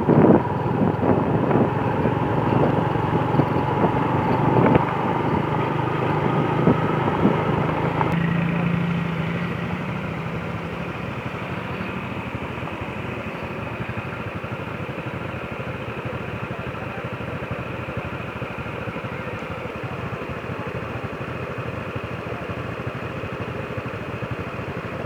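Motorcycle engine running steadily while riding, with road and wind noise. It is louder for the first eight seconds or so, then settles to a quieter, even run.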